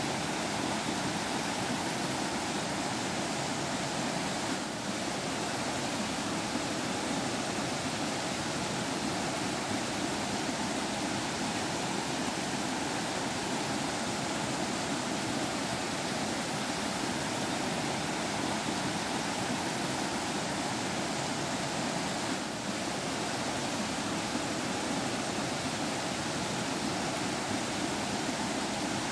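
Forest stream flowing, a steady even rush of water that barely dips twice.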